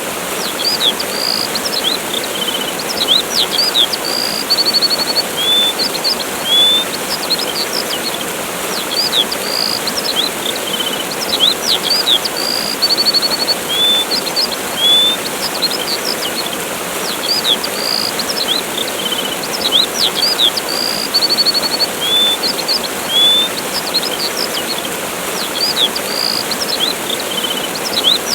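Steady rush of a waterfall with birds chirping over it: short chirps, quick upward slurs and a brief fast trill. The same set of calls repeats about every eight seconds.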